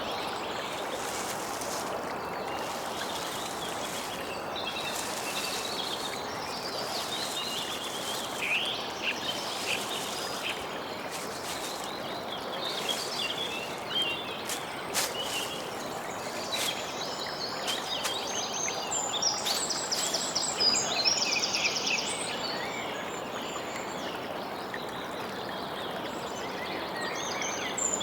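Birds chirping and calling, with quick trilled phrases, over a steady background hiss of ambient noise.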